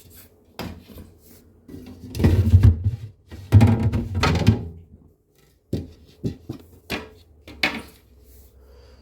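Refrigerator drawers being pulled out of the compartment: two long sliding scrapes with clunks, then several short knocks as they are handled.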